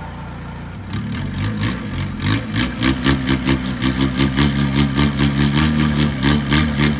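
Peugeot 106's engine revved up about a second in and held at steady high revs, pulsing about five times a second, as the car, stuck in deep muddy water on a tow strap, tries to pull free.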